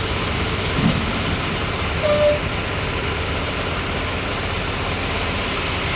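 An engine running steadily at a constant speed, with a short higher-pitched tone about two seconds in.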